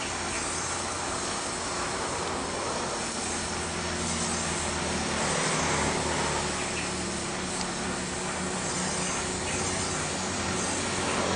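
Steady mechanical running noise: a broad hiss over a low, even hum.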